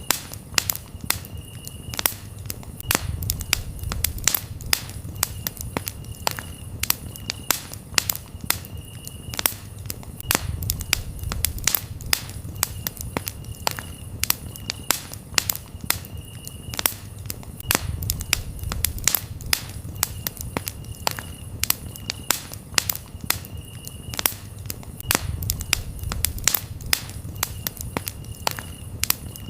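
Wood fire crackling with frequent sharp pops over a low rumble of the flames. A cricket chirps steadily behind it in short high pulses.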